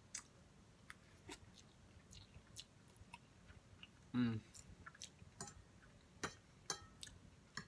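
Close-up chewing of a chicken and vegetable noodle stir fry: soft, scattered wet mouth clicks, with one brief voiced sound about four seconds in.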